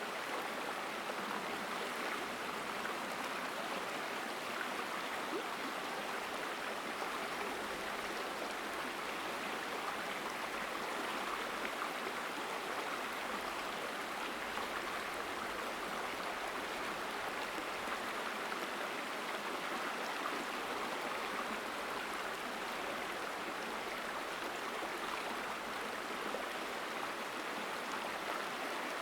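Mountain stream flowing through a forest: a strong, steady rush of running water with no breaks.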